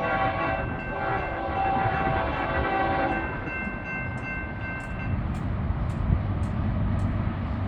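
Diesel freight locomotive's air horn sounding a chord, cutting off about three seconds in, with a fainter upper tone holding to about five seconds. Then the low rumble of the passing train, with sharp ticks about twice a second.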